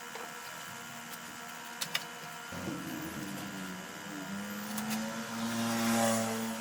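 A motor starts up about two and a half seconds in, rising in pitch and then running at a steady pitch. It grows louder toward the end and then stops. Two sharp clicks come just before it.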